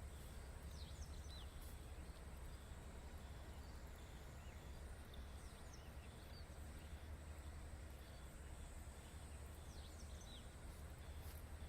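Faint outdoor field ambience: a steady low rumble, a thin steady high-pitched insect tone, and short rising bird chirps in three brief groups, near the start, about five seconds in, and near the end.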